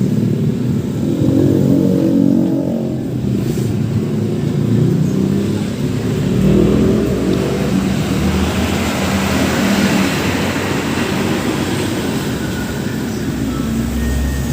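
Steady motor vehicle engine and road noise, a continuous low rumble, with faint voices in the background.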